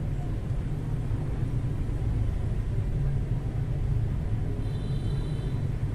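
Steady low background rumble, with a faint brief high tone about five seconds in.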